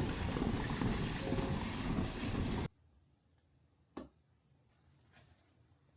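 Loud, steady rushing noise that cuts off abruptly about two and a half seconds in, leaving quiet room tone with a single sharp click near the end.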